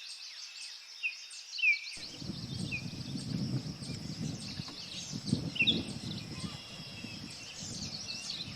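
Songbird chirps and calls: short falling notes repeated over a steady high hiss, with a low outdoor rumble coming in about two seconds in.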